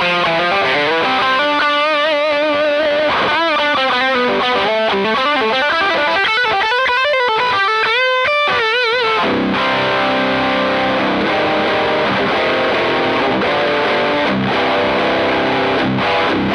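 Electric guitar with EMG 81 active pickups played through a Fender Hot Rod Deluxe IV 40-watt tube combo amp set for a heavily distorted metal tone. It plays a lead line of bent notes with wide vibrato, then, a little past halfway, moves to held, ringing chords.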